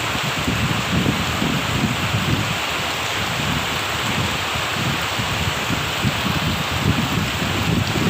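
Heavy rain falling steadily, with wind buffeting the microphone in uneven gusts.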